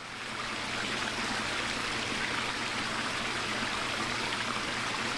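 Water running steadily over a backyard waterfall and stream feature, an even rushing splash that fades in at the start.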